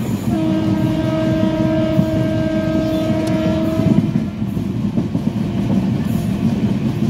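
Train running on the rails, heard from aboard, with a steady low rumble and rattle. A train horn sounds one long, steady-pitched blast from just after the start to about four seconds in.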